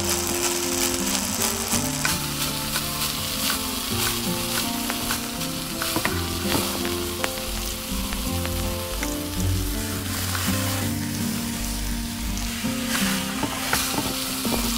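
Food sizzling in a small steel pot over a fire while a tiny metal spoon stirs and scoops it, with occasional clicks and scrapes of the spoon against the pot.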